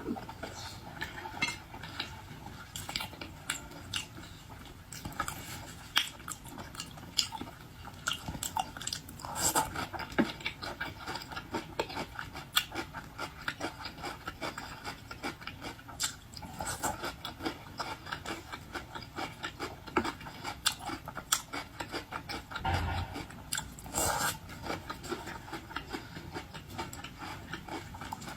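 Close-miked eating of boiled seafood: steady chewing and biting with many small irregular clicks and crackles, and a few louder bursts.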